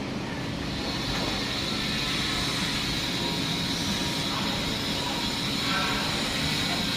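Worn engine running with a loud, heavy knock, a sign that it needs a general overhaul.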